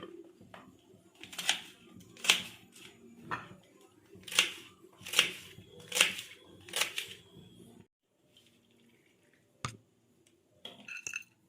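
Raw chicken being mixed with salt, turmeric and chili powder: about seven wet, scraping strokes roughly one a second, which stop near the eighth second. A single sharp click follows near the end.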